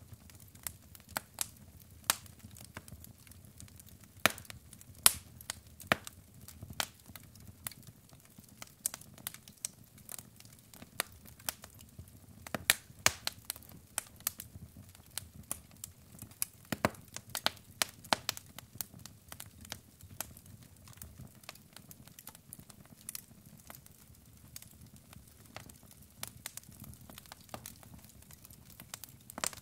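Wood logs burning in a fireplace, crackling with many irregular sharp pops over a soft, low rumble of flame.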